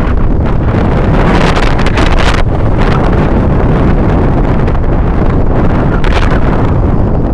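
Strong wind buffeting the microphone, a loud, gusting rumble.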